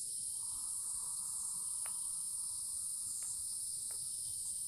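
Steady chorus of insects trilling high and continuously, with a second, lower insect buzz joining just after the start and dropping out near the end, and a few faint clicks.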